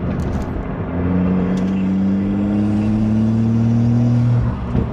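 Car engine pulling hard under acceleration, its note rising slowly for about three and a half seconds, then dropping off suddenly near the end.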